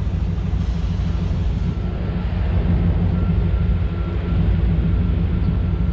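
Chevrolet 350 small-block V8 engine running with a steady low rumble.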